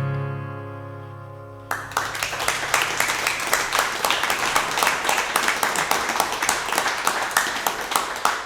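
The last acoustic guitar chord of the song rings out and dies away. Then, just under two seconds in, a small audience breaks into steady applause and clapping.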